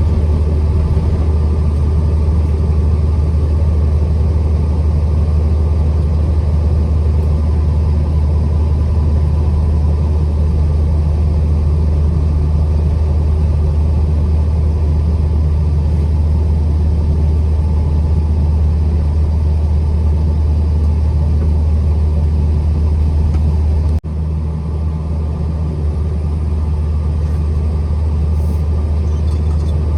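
A truck driving along: steady low engine and road rumble. It drops suddenly near the end, then carries on a little quieter.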